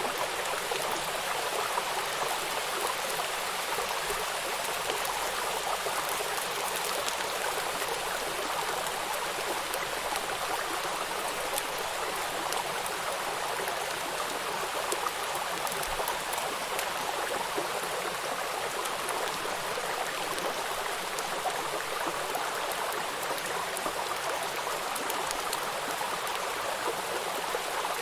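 Flowing river water with rain falling on it: a steady rushing hiss with fine scattered drop ticks.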